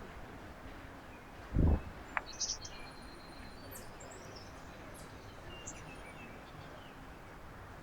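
Small birds at a backyard feeder giving short, high chirps and call notes over a steady outdoor hiss. A dull low thump about a second and a half in is the loudest sound, followed by a sharp click.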